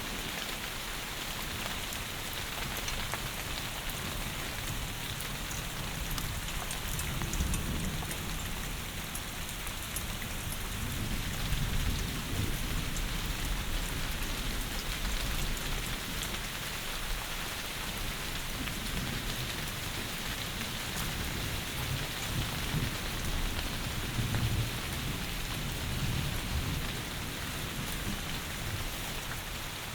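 Heavy rain falling in a steady, even hiss, with low rumbles of thunder swelling up a few times underneath.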